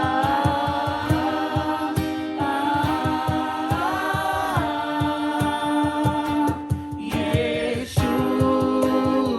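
Group of voices singing a worship song in unison over a steady rhythmic low beat, with a guitar heard just before.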